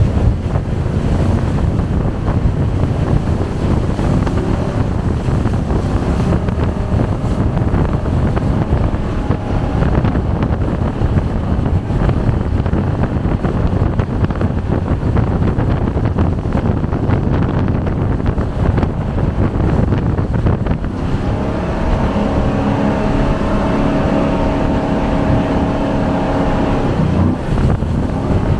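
Jet boat engine running under way, with wind buffeting the microphone. About two-thirds of the way in, a steady engine note with a clear pitch comes through for several seconds.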